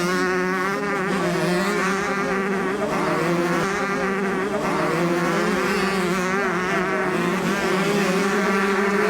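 Several small two-stroke motocross bikes racing, their engines droning together at several pitches that waver up and down as the riders work the throttles.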